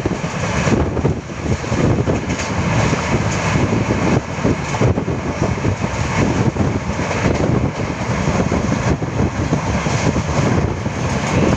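Train running at speed, heard from a phone held outside the coach: a loud, steady rush of wheel and rail noise mixed with wind buffeting on the microphone.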